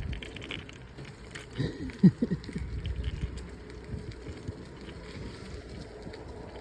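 Bicycle being ridden over a rough road: steady low rumble of the tyres and rattling of the bike, with wind on the microphone. About two seconds in there is a sharp knock together with a short gliding pitched sound.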